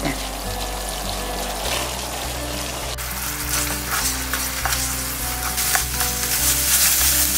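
Gochujang seasoning sauce sizzling as it bubbles in a frying pan, the sign that it is ready for the squid. About three seconds in the sound changes to dried squid strips sizzling as they are stirred through the sauce, with occasional sharp clicks of the utensils.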